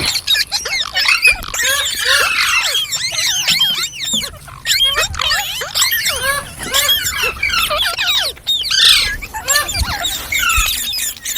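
Green parrots chattering: a dense, continuous run of short, squeaky calls that sweep up and down in pitch, overlapping one another.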